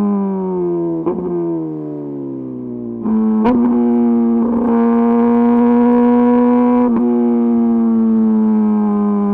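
Kawasaki ZX-10RR inline-four engine through an Arrow Pro-Race exhaust, its note falling for about three seconds, then jumping higher at a gearshift, holding steady for a few seconds and easing down near the end.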